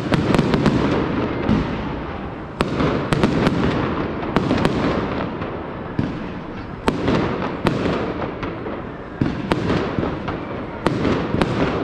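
Fireworks display: aerial shells bursting with sharp bangs, about one a second, over continuous crackling.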